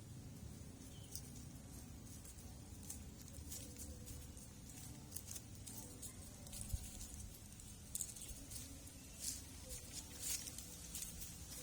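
Kittens moving about: faint scattered scratches and light taps of paws and claws, busier in the second half, with one sharper knock a little past halfway, over a low steady rumble.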